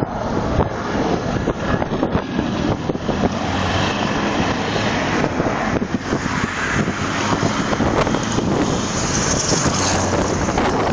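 Scania R500 V8 truck running, mixed with heavy wind noise on the microphone that grows stronger near the end.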